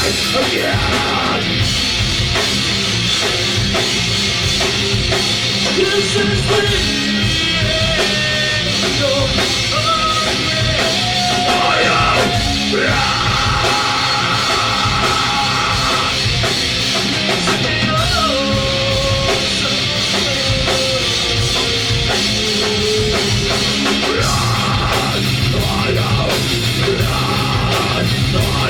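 Rock band playing live and loud: drum kit and electric guitars, with a held, sliding lead melody across the middle of the passage.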